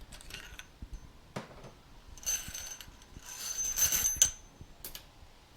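Metal hand-tool work on a motorcycle fork leg: a few sharp clicks, then two spells of metallic rasping about two and three and a half seconds in, carrying a thin high ringing note, as a just-started fork part is worked on.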